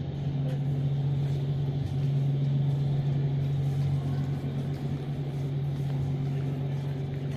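A steady, loud, low mechanical hum that holds one even pitch.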